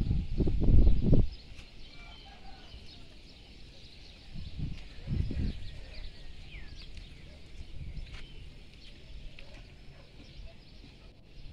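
Birds chirping and calling in the background, with a low rumble on the microphone for about the first second and again about five seconds in.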